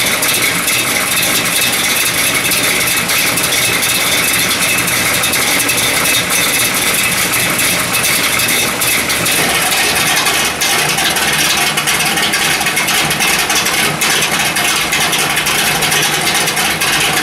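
1957 Chevy gasser's engine idling steadily, first through its mufflers. About nine or ten seconds in, the exhaust cutouts are opened and the idle turns deeper and more open.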